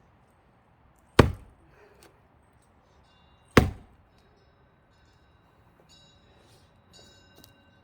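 Axe chopping into a thick pine log being split for firewood: two heavy strikes about two and a half seconds apart.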